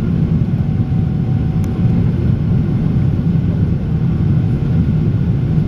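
Airliner taking off, its jet engines making a loud, steady low rumble.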